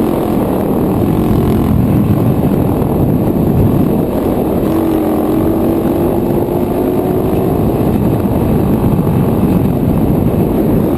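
110cc dirt bike's single-cylinder four-stroke engine running hard at speed, buried in heavy wind rush on the microphone; its pitch creeps up slightly about halfway through.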